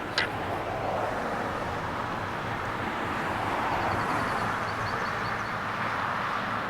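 Boeing 757's jet engines heard from a distance, a steady rushing rumble that swells slightly in the middle.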